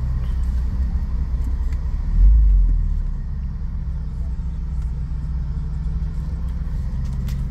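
BMW 330Ci's 3.0-litre straight-six idling, heard from inside the cabin as a steady, low-pitched sound, with a brief louder low swell about two seconds in.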